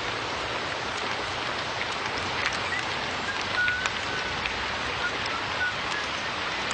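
Steady hiss like falling rain, with scattered ticks of drops and a few brief, faint high peeps.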